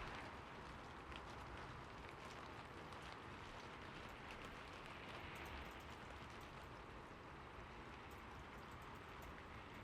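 Faint, steady rain falling, with scattered drops ticking on a surface.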